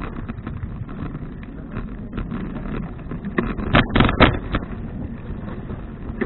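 Wind and road noise from riding a touring bicycle, picked up by a camera mounted on the bike. About four seconds in there is a short rattle of several sharp knocks.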